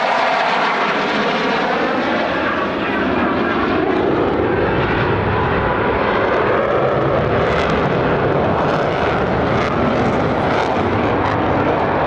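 Loud jet noise of a U.S. Air Force F-16 Fighting Falcon flying a demonstration maneuver, its pitch falling over the first few seconds as it passes.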